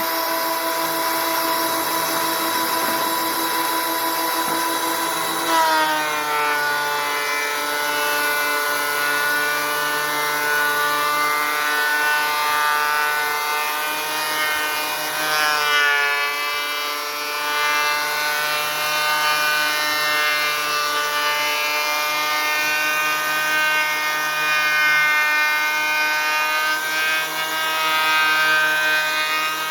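Electric thickness planer running steadily with a high motor whine and cutter noise, planing rough-sawn boards. About five seconds in, the pitch drops as a board feeds into the cutterhead and loads the motor, and it dips and recovers again about halfway through.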